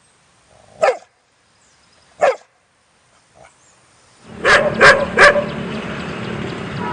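A dog barking: two single sharp barks a second and a half apart and a faint third. Then, over a steady background rumble, three loud barks in quick succession.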